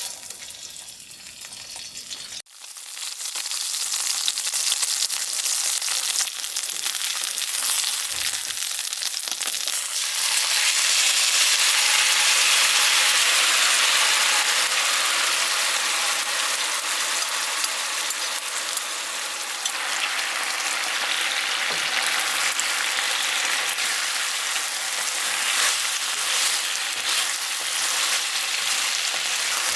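Food sizzling and frying in a hot pan, a steady hiss that jumps in suddenly a couple of seconds in and is loudest through the middle stretch.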